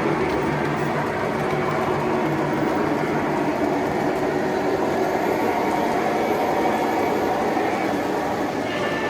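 Several O-gauge model trains running together: metal wheels rumbling and clicking steadily on three-rail track, mixed with the locomotives' electronic diesel engine sounds from their onboard speakers.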